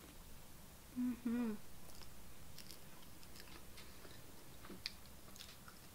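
A person chewing a tortilla-chip nacho topped with chili, heard as small crunches and wet mouth clicks. About a second in there is a short hummed "mmm", the loudest sound.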